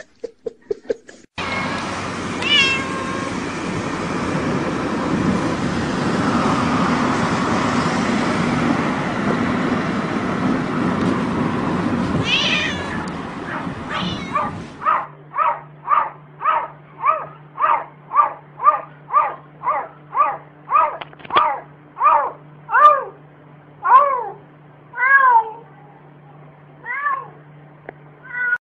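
A domestic cat meowing over and over in short calls, each rising then falling, about two a second, spacing out near the end. Before that, for about the first half, there is a steady rushing hiss with only a couple of meows.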